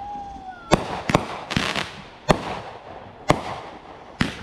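Fireworks bursting: a string of sharp bangs roughly a second apart, one followed by a brief crackle, with a short rising whistle near the start.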